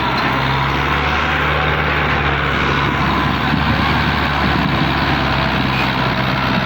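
Massey Ferguson tractor's diesel engine running steadily at a low, even speed.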